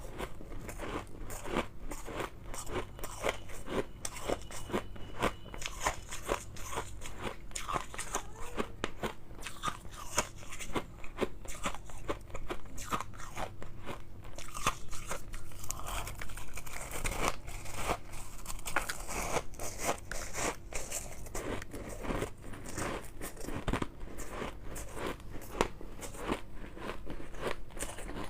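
Close-miked biting and chewing of refrozen shave ice, a continuous run of irregular crunches and crackles.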